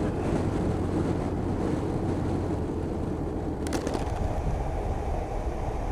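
Motorcycle engine running steadily with wind rush while riding along, with a brief burst of sharp clicks a little after halfway.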